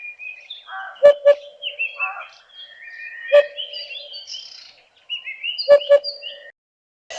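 Several birds calling at once, a busy mix of short chirps and whistled notes, with a steady lower tone and a few sharp clicks underneath. The sound stops briefly about five seconds in and cuts off just before the end.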